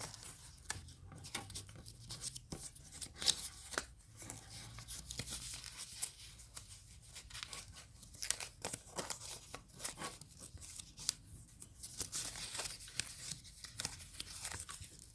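Sheet of paper being worked by hand: irregular crisp rustling and crinkling, with short tearing sounds.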